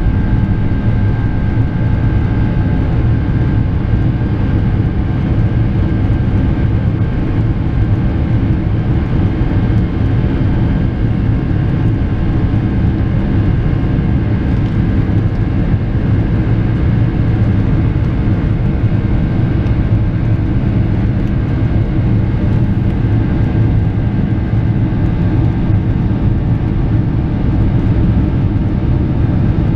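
Steady low rumble of a Boeing 747-400 airliner's engines and rushing air, heard inside the passenger cabin shortly after takeoff.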